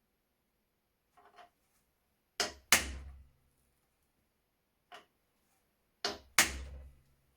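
Sharp knocks in two pairs, about three and a half seconds apart, each pair a lighter blow followed at once by a heavier one, with a few light taps between them.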